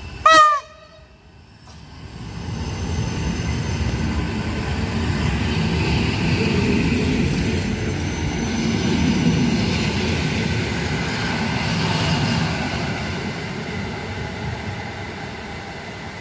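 Short horn blast from a PKP EN57 electric multiple unit, then the train pulls away: wheels rolling on the rails and traction motors running, building up over several seconds and fading as it moves off.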